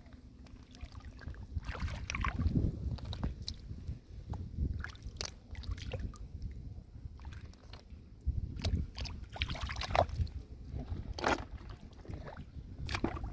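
Water sloshing and splashing in uneven strokes, with scattered sharp knocks and clicks.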